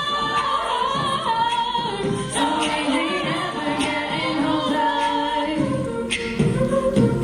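A cappella vocal group singing a pop song in several-part harmony, voices only with no instruments; lower sustained parts come in about two-thirds of the way through.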